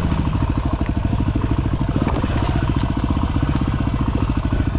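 Single-cylinder dirt bike engine idling with an even, rapid beat.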